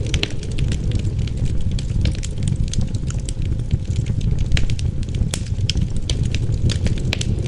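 Wood fire crackling, with frequent irregular sharp pops and snaps over a steady low rumble of wind.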